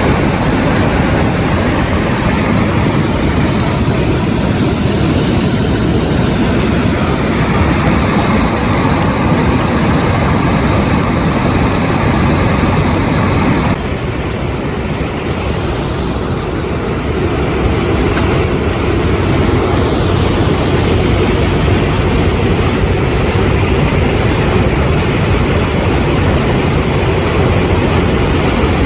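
Steady roar of the rain-swollen Takahashi River running high in flood, a loud even rush with its weight low down. About fourteen seconds in, its tone shifts slightly and it drops a little in level.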